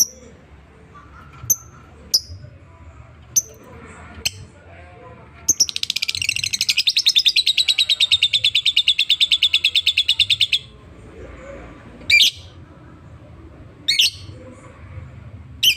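Lovebird singing: a few sharp high chirps, then a long, fast rattling trill of about five seconds, then more loud chirps.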